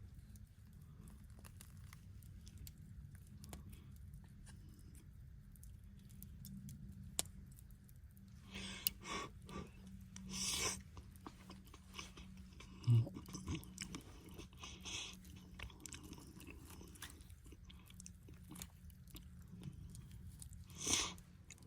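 Someone chewing and crunching food close to the microphone, in short crunchy bursts separated by pauses, over a low steady rumble.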